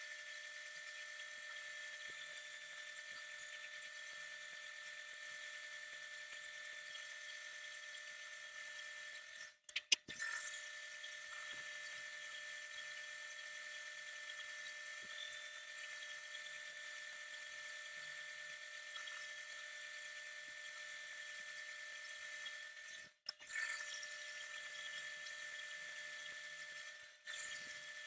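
A power tool's motor running with a steady high whine. It cuts out abruptly twice, with a click each time, about ten and twenty-three seconds in.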